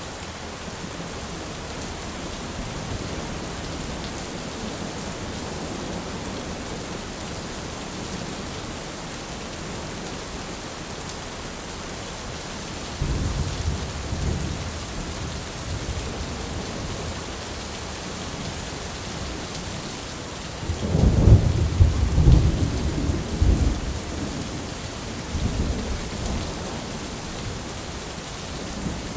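Steady rain falling in a thunderstorm, with thunder rumbling: a first roll about halfway through, then a louder, longer peal with several cracks a few seconds later that rolls away.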